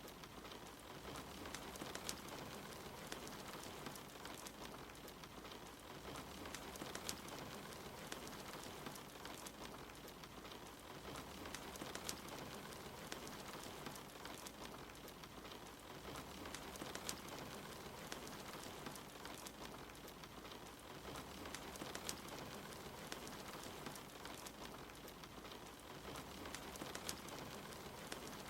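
Soft, steady rain mixed with a wood fire crackling, with scattered sharp pops and snaps from the fire.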